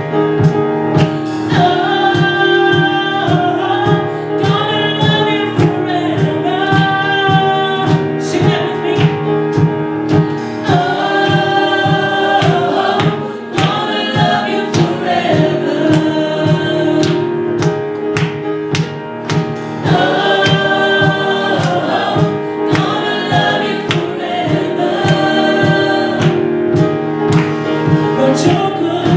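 Gospel vocal group singing in harmony over a band with a steady beat, long held notes sliding between phrases.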